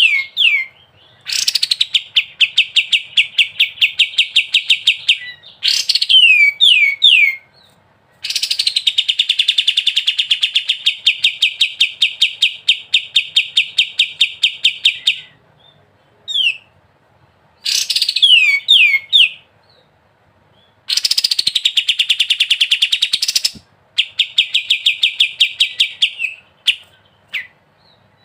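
A kapas tembak songbird singing in the ngebren style: long rapid trills of evenly repeated notes lasting several seconds each, alternating with short runs of three or four descending whistled notes, with brief pauses between phrases.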